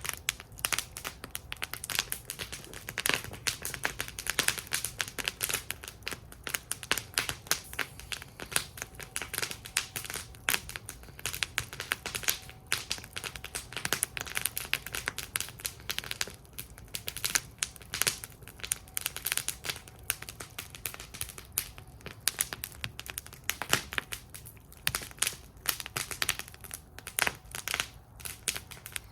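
Wood fire burning in a fire bowl, crackling and popping continuously with many irregular sharp snaps over a low rumble of the flames.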